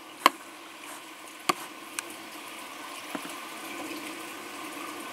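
Steady rain during a thunderstorm, an even hiss, with a few sharp taps scattered through it.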